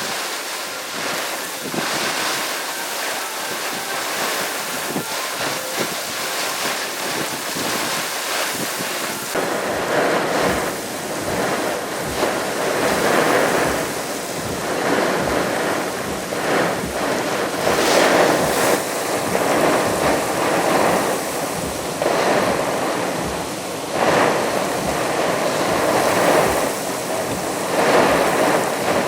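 Typhoon winds gusting hard, the rush swelling and easing in surges every few seconds, with wind buffeting the microphone. The gusts grow stronger about nine seconds in.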